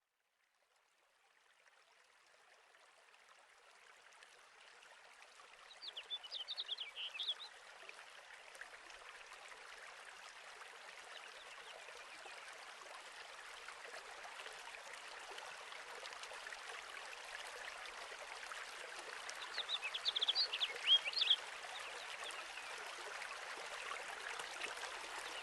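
Flowing stream rushing steadily, fading in slowly and growing louder, with two short bursts of bird chirping, about six seconds in and again about twenty seconds in.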